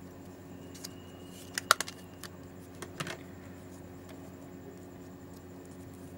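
A few small clicks and taps of tools and small parts being handled, loudest about one and a half seconds in, over a steady low hum.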